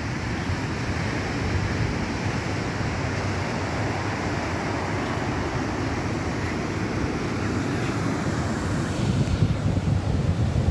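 Rough sea's surf washing steadily, with wind buffeting the microphone in gusts near the end.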